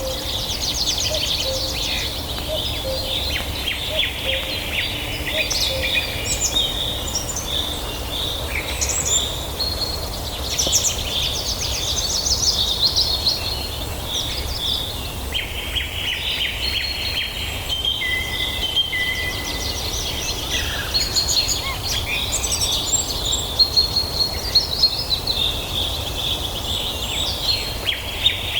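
Several songbirds singing at once in a dense chorus of rapid trills and high chirps over a steady low background rumble.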